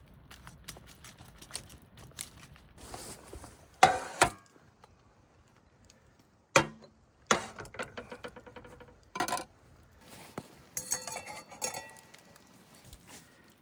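Metal cookware and utensils being handled: scattered clinks, knocks and scrapes, with several sharp knocks and a ringing metallic clatter near the end.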